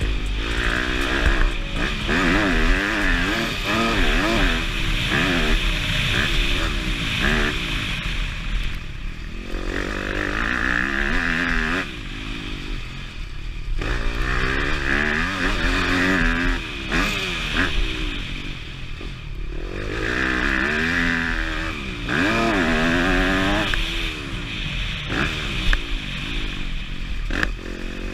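Motocross bike engine revving hard and falling back over and over, its pitch rising and dropping as the rider throttles through the track's sections, with brief lulls where the throttle is shut off.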